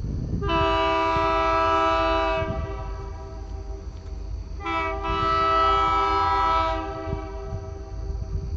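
Diesel locomotive air horn on a Kiamichi Railroad train sounding two long blasts, each about two seconds, for a grade crossing, over a low rumble.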